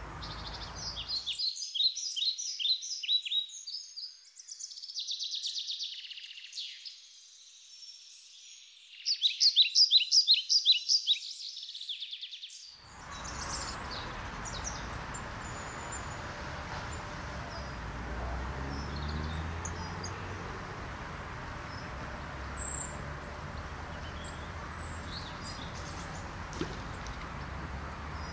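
Songbird singing rapid chirping trills, loudest in a burst about ten seconds in, with nothing else audible beneath it. About thirteen seconds in it gives way abruptly to steady outdoor background noise with a low rumble and an occasional faint bird chirp.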